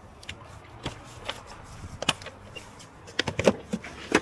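A scatter of sharp clicks and knocks from hands working at the plastic engine air filter box, with several close together a little after three seconds in.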